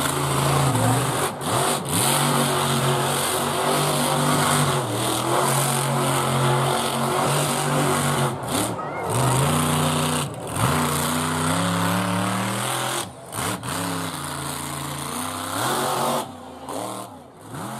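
Monster truck engine running and revving, its pitch rising and falling several times, with short dips in between.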